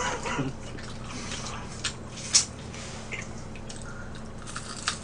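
People eating fried chicken with their hands: wet chewing and lip-smacking with a few short, sharp clicks, the loudest about two and a half seconds in.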